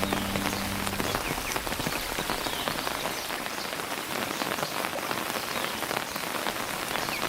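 Steady rain falling on surfaces: a dense, even hiss made of many small drop hits. The low notes of a music track linger through about the first second.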